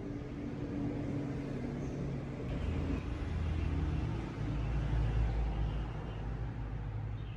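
A low, steady mechanical rumble with a hum, growing louder about two and a half seconds in.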